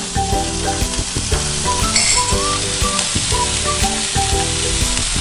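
Diced chicken sizzling as it fries in a little oil in a hot frying pan, with background music that has a steady beat playing underneath.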